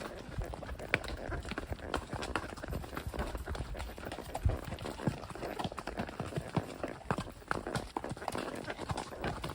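Hoofbeats of a spotted saddle horse gelding moving along, a continuous run of clip-clopping knocks.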